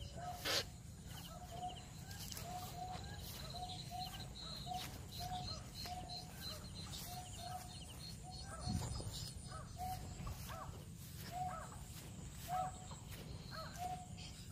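A bird's short call repeated over and over, about twice a second, with fainter high chirps from other birds, over a low rumble. A sharp click comes just after the start and a dull thump about nine seconds in.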